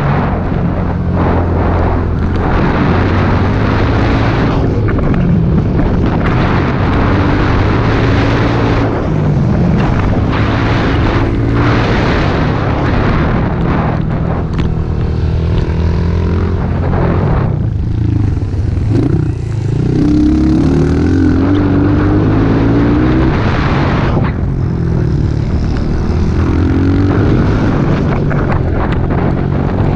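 Small pit bike engine running under throttle while being ridden. Its pitch rises and falls repeatedly with throttle and gear changes.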